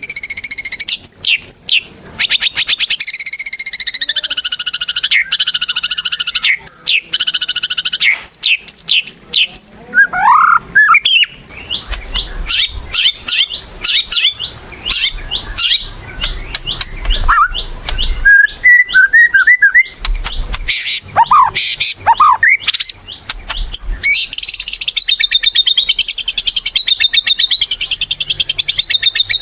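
White-rumped shama singing a loud, unbroken, varied song: high warbled phrases, quick rising slurs, runs of fast rattling notes, and a wavering trill near the end.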